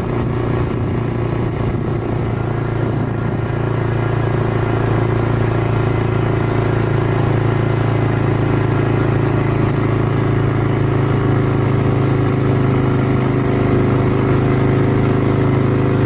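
Quad bike engine running steadily at one pitch while riding.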